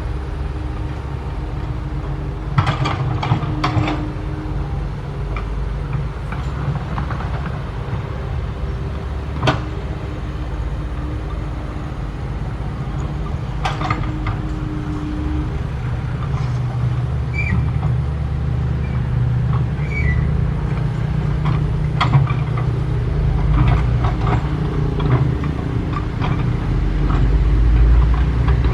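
Diesel engine and hydraulics of a SANY SY135F excavator digging, running steadily and building louder near the end, with several sharp knocks scattered through.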